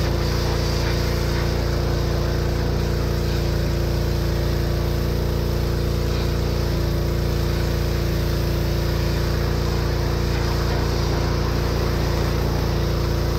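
Pressure washer running steadily: a small engine's drone under the constant hiss of the water spray.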